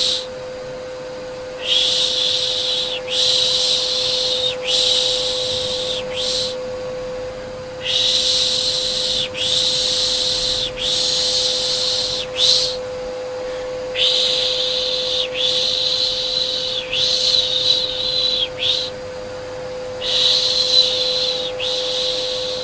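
Rhythmic "shh" shushing, repeated in runs of three or four long shushes with short breaks between runs, over a steady vacuum cleaner hum. A white-noise style baby-soothing sound.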